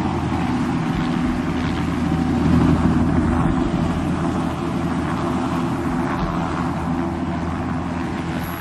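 Aircraft engine noise, a steady drone with a low hum. It swells a little about three seconds in and eases off toward the end.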